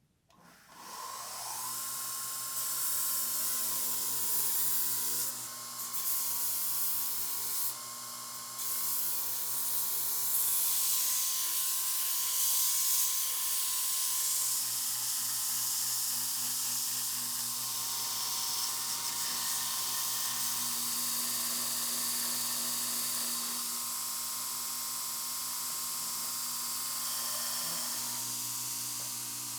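A small electric rotary power tool starts about half a second in and runs steadily with a high whine, working on metal parts. Its sound dips and shifts briefly a few times.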